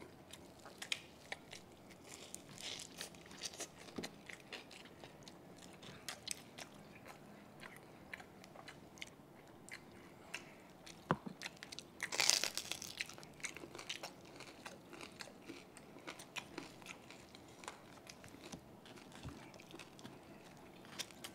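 Close-miked chewing and crunching of crispy deep-fried pork belly (lechon kawali), a steady patter of small crackles with one louder crunchy bite about twelve seconds in.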